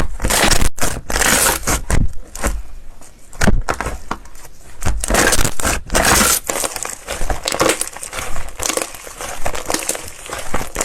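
Slime being squeezed and pressed by hand, making crunchy, crackling squishes in irregular bursts.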